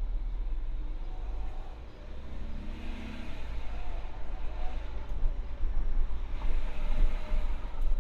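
Peugeot 508 SW on the move, with a steady low rumble of road and drivetrain noise, and hissy higher-pitched patches about three seconds in and again near the end. The car has an abnormal noise that starts when turning corners.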